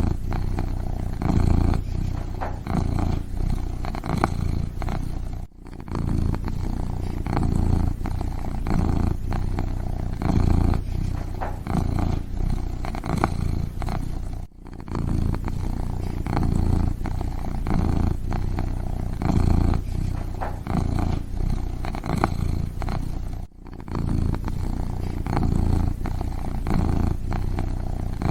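Kitten purring steadily, a low rumble that swells and fades in a regular rhythm, with three short breaks about nine seconds apart.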